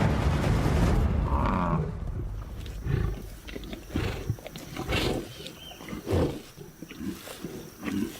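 Lions growling and snarling: a loud, deep rumble for about two seconds, then a run of short, irregular growls and grunts.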